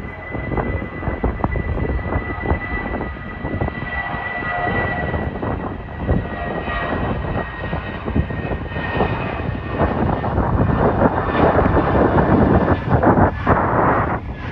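Jet airliner departing at takeoff thrust: a steady high engine whine over dense low rumble, the noise growing louder toward the end as the aircraft passes.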